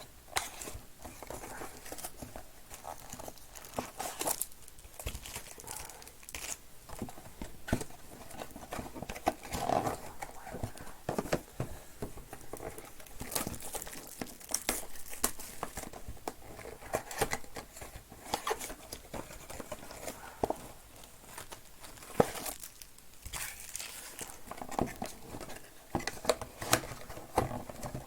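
Baseball card packs being opened and cards handled: wrappers crinkling and tearing, with irregular clicks and taps as cards are shuffled on a table.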